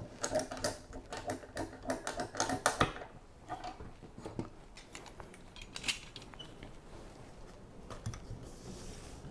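Rapid mechanical clicks and knocks of a clamp being tightened onto a timber template, dense for the first few seconds and then sparser, with light handling of wood.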